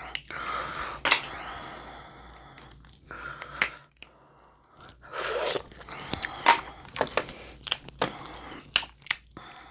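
Close-miked eating of a seafood boil: chewing and mouth noises with sharp, irregular crunches and cracks, and a brief pause about four seconds in.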